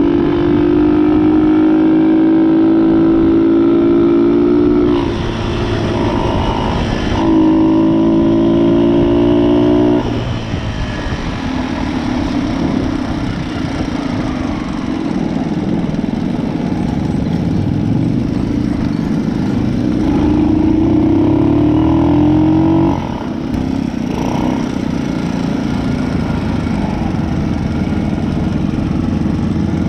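Motorbike engine running while riding, heard from a chest-mounted camera. The engine holds steady revs, drops in speed about five, ten and twenty-three seconds in, and builds up in pitch before the last drop.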